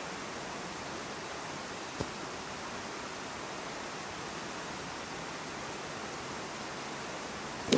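Wolf Creek flowing steadily over and around stepping stones, running high after a lot of rain. A short sharp knock comes about two seconds in and a louder one near the end.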